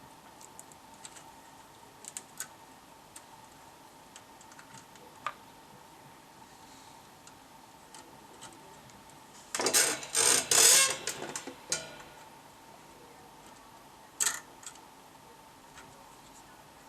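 Small handling clicks and knocks, with a couple of seconds of loud clattering about ten seconds in and one sharp click a few seconds later, over a faint steady high tone.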